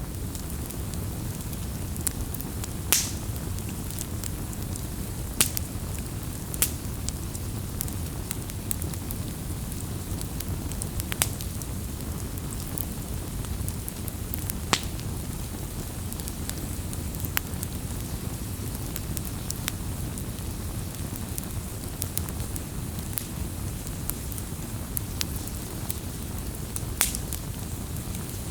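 Wood bonfire burning with a steady low rumble of flame and irregular sharp crackles and pops of the burning wood, a few of them louder snaps.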